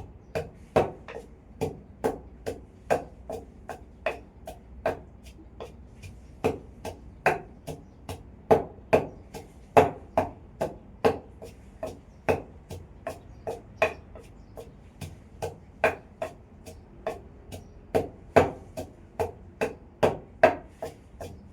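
Steady rhythmic knocking on wood from kitchen food preparation, about two to three sharp strokes a second with an uneven loudness.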